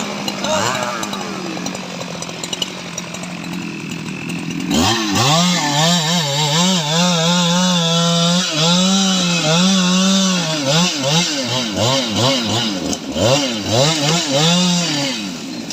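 Stihl MS 881 two-stroke chainsaw running at a steady pitch, then from about five seconds in its engine speed rises and falls over and over as the throttle is worked, until near the end.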